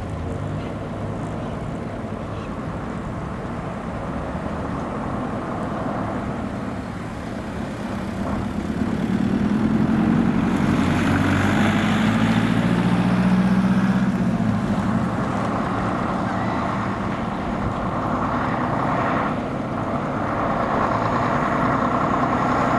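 Mack B-Model log truck's engine running. It grows louder about eight seconds in, holds strongest for several seconds, then eases off.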